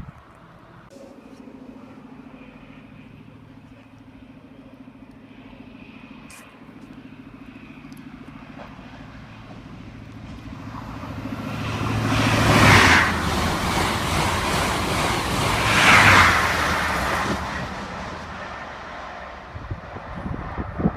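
Class 66 diesel freight locomotive passing through the station without stopping. Its engine hum builds steadily as it approaches, then the train rushes past, loudest about twelve and again about sixteen seconds in, before fading away.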